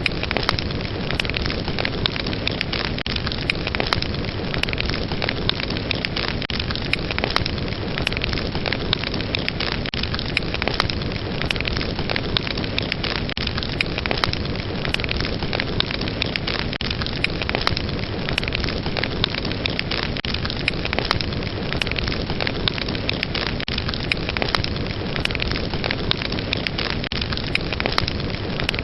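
Fire in a fireplace crackling steadily: many small sharp crackles over a constant hiss of flames.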